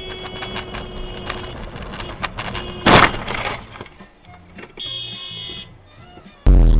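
Car horn sounding alongside a clatter of knocks, then a single loud crash impact about three seconds in and a second horn blast around five seconds. Near the end a loud steady low rumble of road noise starts abruptly.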